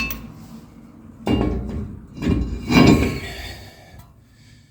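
Brake rotor being slid back onto the wheel hub studs: a sharp metal clank, then two longer bouts of metallic scraping and clanking, the second the louder, with a little ringing.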